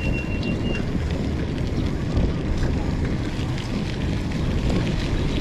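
Steady low rumble of a vehicle on the move, with wind buffeting the microphone; a brief thin high tone sounds in the first second.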